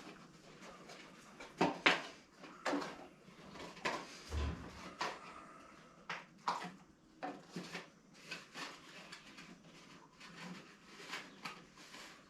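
Irregular light clinks, knocks and rattles of objects being handled, a dozen or more scattered through the stretch with no steady rhythm.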